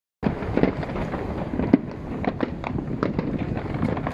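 Fireworks display: a continuous low rumble of bursts with many sharp pops and crackles, the loudest bang coming a little under two seconds in.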